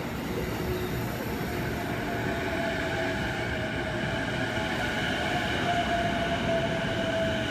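JR East E233 series electric train running past close by as it departs, with a rumble of wheels on rail and a steady electric motor whine over it that grows stronger from a second or two in.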